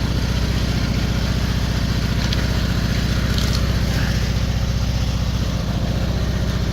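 Riding lawn mower's small engine running at a steady speed.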